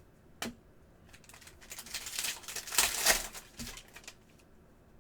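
Trading cards and a foil card-pack wrapper being handled: a sharp click about half a second in, then a couple of seconds of crinkling and rustling, loudest around the three-second mark.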